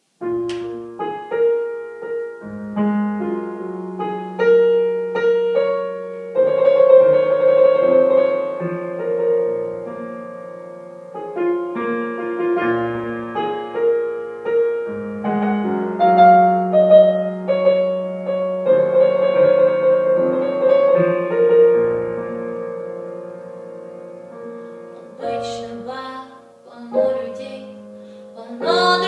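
Piano playing a slow instrumental introduction of held chords and melody notes.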